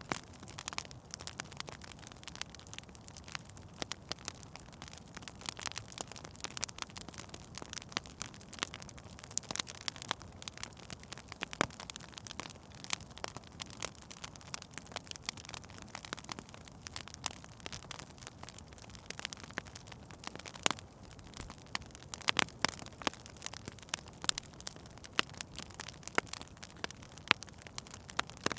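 Wood fire crackling in a fireplace: frequent sharp, irregular pops and snaps over a soft steady hiss.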